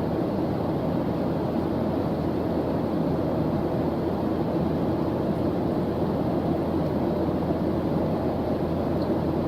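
A steady white-noise ambience track: an even, unchanging rushing hiss weighted toward the low end, with no breaks or separate events.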